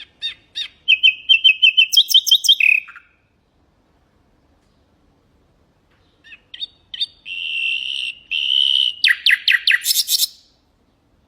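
Nightingale singing two song phrases of rapid repeated notes and trills, about three seconds apart. The second phrase ends in a fast, loud run of sharp notes.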